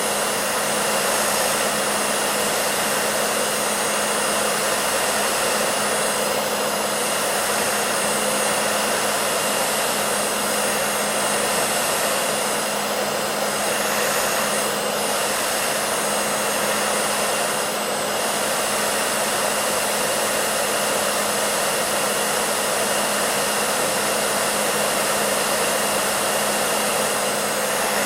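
Hair dryer running steadily: an even rushing hum of motor and blown air with a steady low tone.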